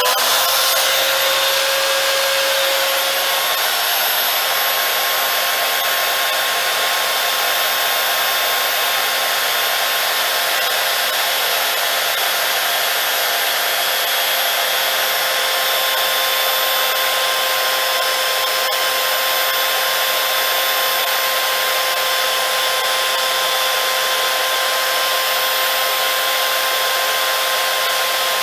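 Steinhaus PRO-BS1010 electric belt sander running steadily at full speed, a loud even whir with a high whine over a rushing hiss.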